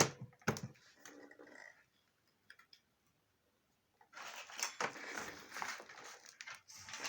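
Clicks and clatter of a vacuum cleaner's parts being handled as the filter is fitted: two sharp clicks near the start, a silent stretch in the middle, then a few seconds of busy clattering.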